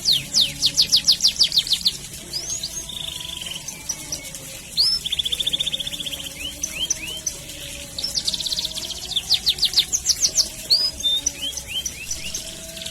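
Domestic canary singing a long, continuous song: fast trills of high, steeply falling whistled notes (about eight a second), buzzy rattling rolls around a second long, and single chirps, with the falling-note trills returning about two-thirds of the way through.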